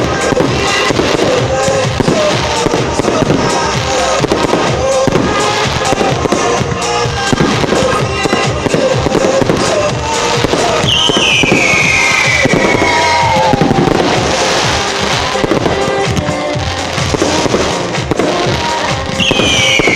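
Fireworks display: fast, dense bangs and crackle from aerial shells and multi-shot cakes, with music playing along. A long falling whistle comes about eleven seconds in and another starts near the end.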